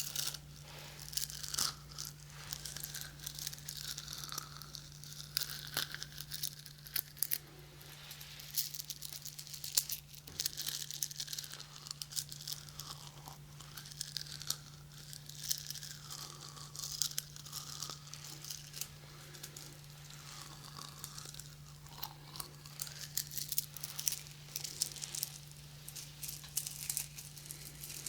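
Close, continuous scratching and rubbing on the ears of a 3Dio binaural microphone, a dense crackly rustle full of small clicks, over a steady low electrical hum.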